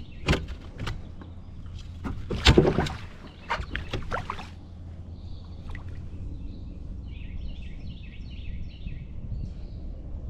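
Knocks and rattling clatter of gear being handled in a fishing kayak, with one loudest clatter about two and a half seconds in and the handling settling down after about four seconds. Small birds chirp over a steady low rumble for the rest of the time.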